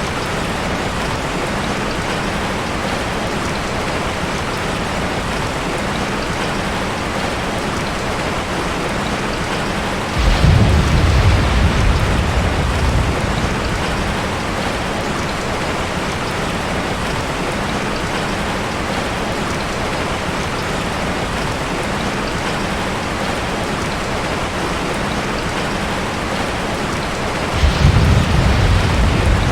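Steady rain falling, with two low rolls of thunder that start suddenly, one about ten seconds in and one near the end, each fading over a few seconds.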